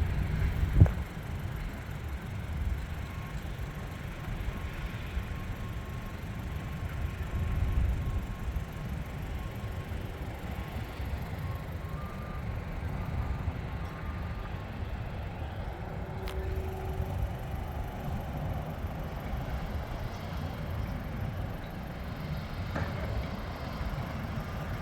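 Train rolling past with a steady low rumble, and a single sharp knock about a second in.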